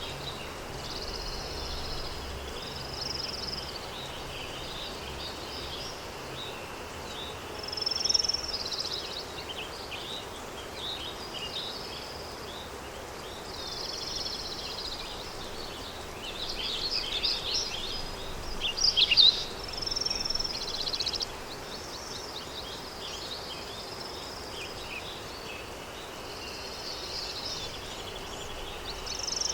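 Countryside daytime ambience: many small songbirds chirping and trilling over a steady low wind, with the busiest song about eight seconds in and again from about sixteen to twenty-one seconds.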